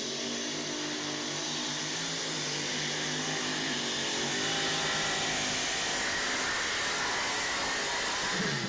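Pulling truck's diesel engine running hard at high revs under full load. It holds a steady pitch over a loud hiss that swells slightly partway through.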